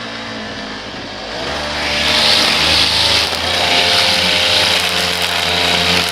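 An engine running steadily, picking up speed and getting louder about a second and a half in, with a hiss above it.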